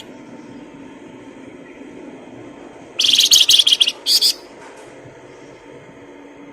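A songbird singing a short burst of rapid, high trilled notes about three seconds in, with a brief break before a final phrase, lasting about a second and a half.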